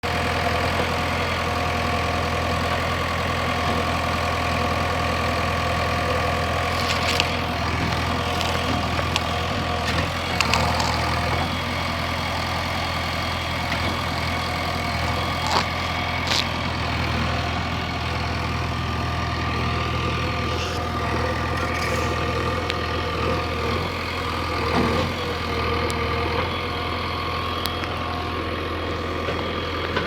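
Heavy diesel machine engine running steadily, with a few sharp knocks from the work.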